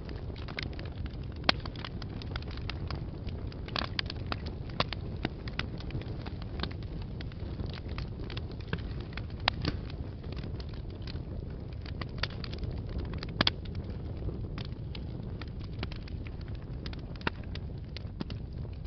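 Fire in a fireplace crackling: a steady low rumble under many scattered sharp pops and snaps, the loudest about a second and a half in, near the middle and about two-thirds through.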